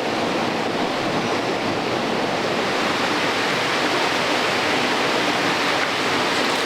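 Water rushing steadily over the rocks of a stream, a loud even rush with no break.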